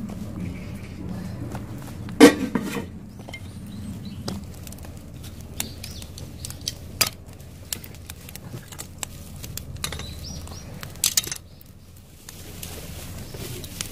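Cooking pot and utensils clattering as they are handled: a sharp metallic clank about two seconds in, then scattered clinks and knocks, with a louder pair of knocks about eleven seconds in.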